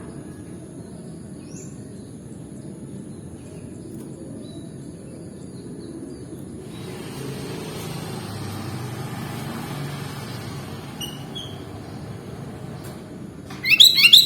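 Low steady outdoor background rumble that swells for a few seconds in the middle. Near the end comes a loud, quick burst of sooty-headed bulbul (kutilang) song notes.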